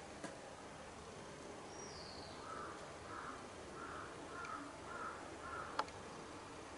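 Faint bird calls from outside: a run of six short calls, about two a second, with one high falling chirp just before them.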